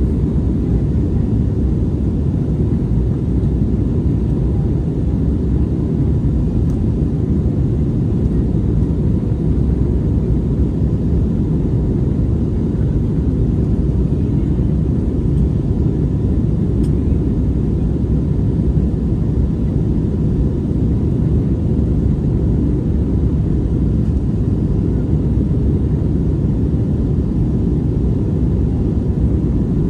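Steady low rumble inside an Airbus A321neo's cabin near the rear, from its engines, with a faint steady hum on top and no change in pitch or level.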